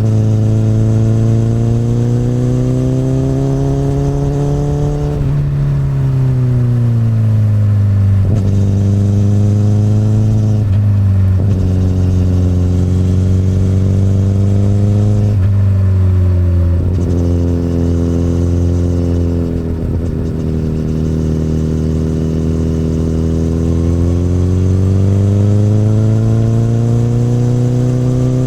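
Honda CBR1000RR's inline-four engine running through an Akrapovic exhaust under way, revs rising and falling with the throttle. The pitch drops sharply several times and climbs steadily again near the end.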